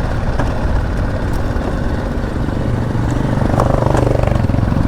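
BMW G 310 GS single-cylinder motorcycle engine running steadily while riding, with a brief rise and fall in pitch about three and a half seconds in.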